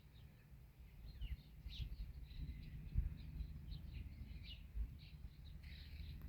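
Birds chirping now and then outdoors, short high calls scattered through, over a faint low rumble with a couple of soft bumps.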